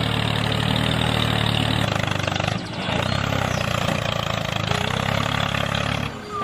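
Small engine running steadily with an even firing pulse, dipping briefly about two and a half seconds in and cutting off near the end.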